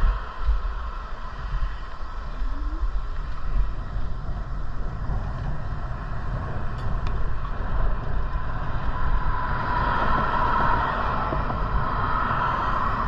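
Wind buffeting the microphone while riding an electric bike, under a steady higher hum that grows louder about ten seconds in.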